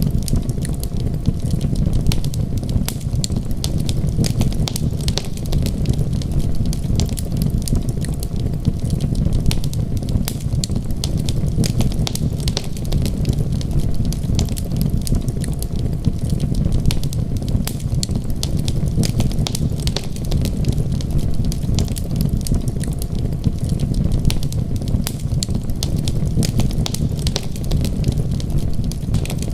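Wood fire crackling, with many small sharp pops at an irregular pace over a steady low rumble.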